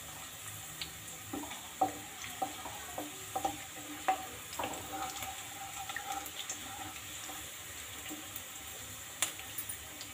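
Chopped garlic sizzling gently in hot oil in a kadhai, with a steady hiss. A wooden spatula scrapes and taps against the pan in scattered strokes through the first half as the garlic is stirred.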